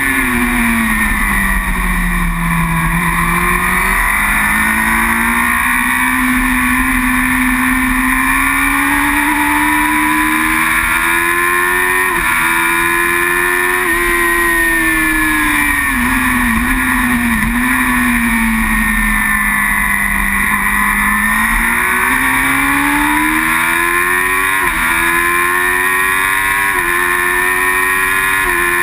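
Superbike engine at racing speed: revs fall off early on, then climb and sag with the throttle, with several sudden drops in pitch as it is shifted up through the gears.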